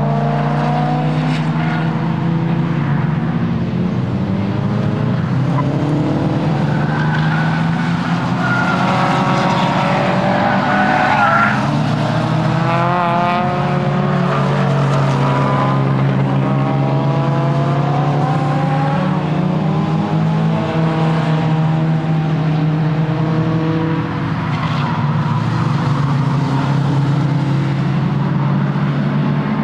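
Nissan S15 Silvia's four-cylinder engine being driven hard on a circuit, its note repeatedly rising under acceleration and dropping for gear changes and braking, with tyres squealing at times.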